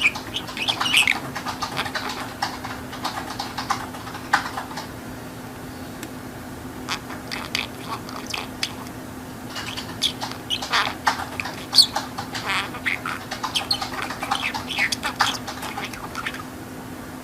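A pet budgerigar chattering and warbling in quick, high squawky bursts, with a lull of a couple of seconds near the start before it picks up again. A faint steady low hum runs underneath.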